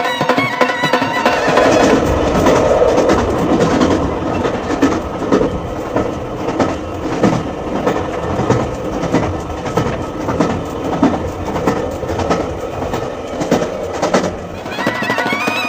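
A train running on rails, its wheels clicking over the joints in a steady rhythm, with music underneath. Melodic music comes back in near the end.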